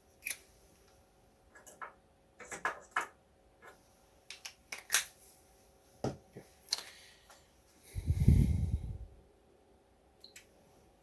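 Scattered small clicks, taps and rattles of hands handling tools and parts on a workbench, with a louder low bump or rumble lasting about a second near the end.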